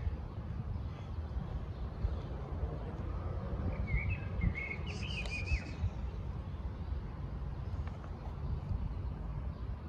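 A small bird chirping, a short quick warbling phrase about four seconds in, over a steady low rumble.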